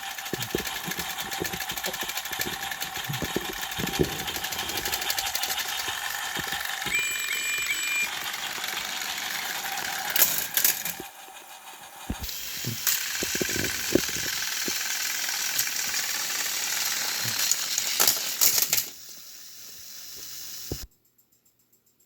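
Small battery-powered toy train motors running with a steady whir and buzz, with irregular clicks and clatter from wheels and couplings on plastic track. The running cuts out about eleven seconds in and starts again a second later. It drops lower near the end, then stops abruptly.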